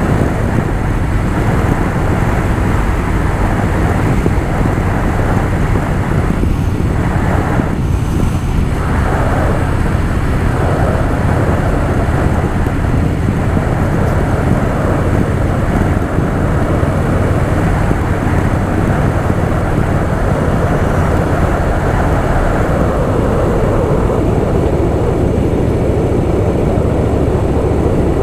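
Harley-Davidson Softail Fat Boy's V-twin engine running steadily as the bike is ridden, mixed with a rush of wind and road noise.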